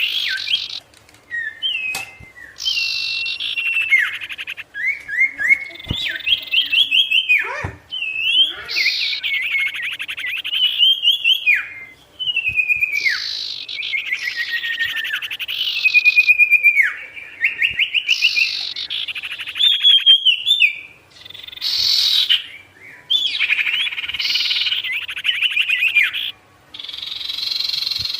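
Songbird sold in Indonesia as 'sirtu', singing continuously: rapid trilled phrases, many ending in a falling slur, come in bursts of a second or two with short pauses between them.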